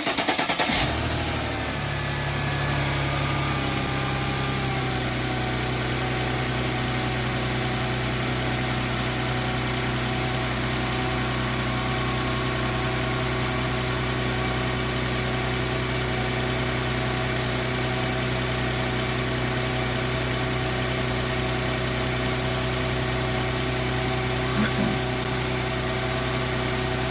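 Mercedes M112 V6 engine catching right at the start, revs flaring briefly and then settling to a steady idle after about four seconds. It is running to circulate freshly filled engine oil through a new oil filter.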